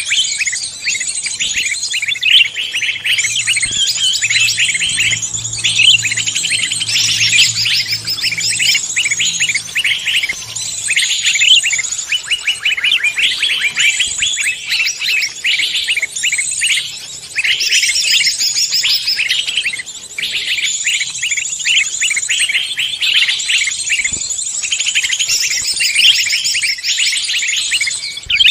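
Dense mix of many songbirds chirping and trilling at once, a continuous, busy chorus of quick high notes. It is a bird-lure recording made to draw other wild songbirds in.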